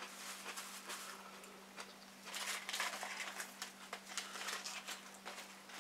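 People chewing burgers close to the microphone: soft wet chewing and mouth clicks that grow busier about two seconds in, over a steady low hum.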